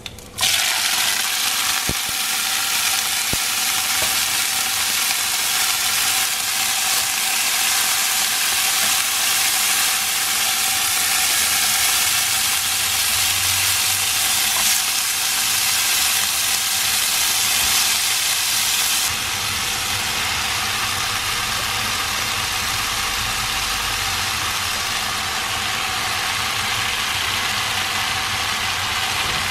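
Garlic and leafy greens frying in hot oil in a non-stick wok, a steady sizzling hiss that drops a little in level about two-thirds of the way through.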